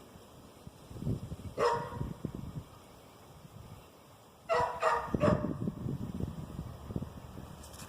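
A dog barking: one short bark about a second and a half in, then three quick barks close together around the five-second mark, with low rumbling noise underneath.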